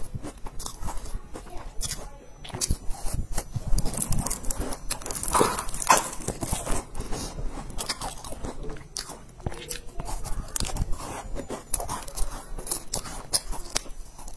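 Biting and chewing crumbly sesame-topped cookies: many small crisp crunches and crackles with mouth chewing sounds, denser for a moment around the middle.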